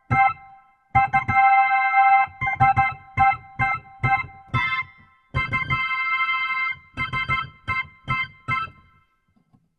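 Electric keyboard music: short, stabbed chords with a low note under each, in a bouncy rhythm that breaks off about nine seconds in.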